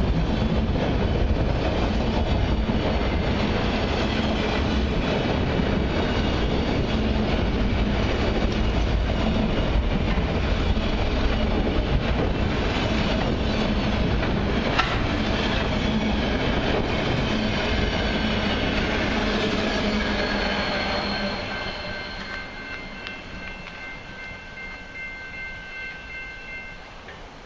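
Autorack freight cars rolling past close by with a steady rumble and wheel clatter. After about twenty seconds the train draws away and the sound fades, leaving a few faint, steady, high squealing tones from the receding wheels.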